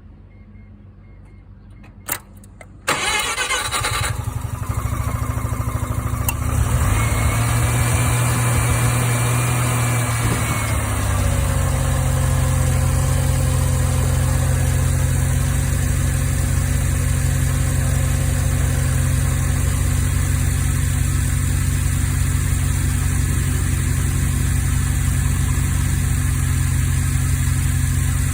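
Mazda RX-7 FD3S's 13B-REW twin-rotor rotary engine cranked by the starter and catching about three seconds in, then running at a raised idle that drops to a steady lower idle about eleven seconds in. The engine is eating coolant, which points to failed internal coolant seals.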